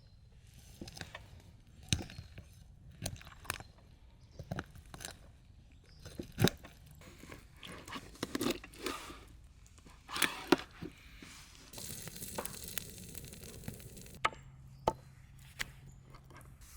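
Food being chopped with a knife on a cutting board: irregular sharp knocks of the blade, a few seconds apart, some in quick pairs.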